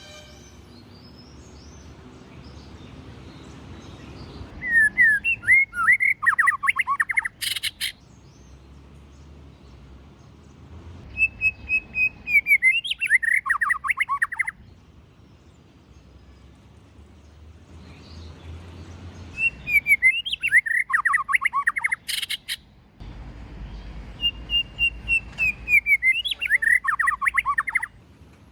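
White-rumped shama singing: four phrases, each opening with a clear whistle and running into a fast series of quick notes, with pauses of a few seconds between them. A couple of sharp clicks fall between phrases.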